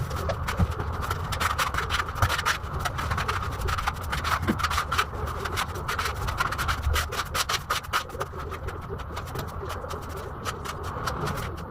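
Steel putty knife scraping and clicking against a wall as putty is spread, in rapid irregular strokes, over a low steady hum.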